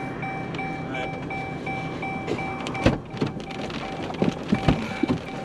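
Steady rumble of a vehicle on the move, with an electronic chime beeping about three to four times a second. From about halfway through come several loud, sharp knocks at irregular intervals.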